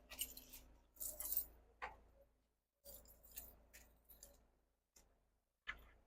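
Light clinks and rattles in several short, separate bursts, the loudest about a second in, with abrupt gaps between them.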